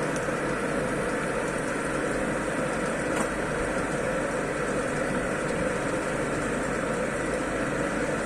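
Double mixer machine running steadily on a test run, an even mechanical running noise, with a faint click about three seconds in.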